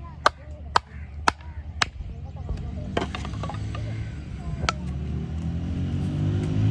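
Four sharp knocks about two a second, then two more single knocks, over a low hum that rises and grows louder near the end.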